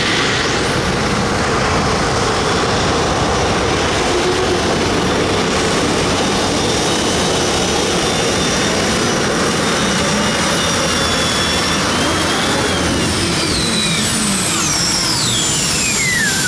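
Modified pulling tractor's engine running at full power on a pull, a loud, steady din. Near the end a high whine falls steeply in pitch.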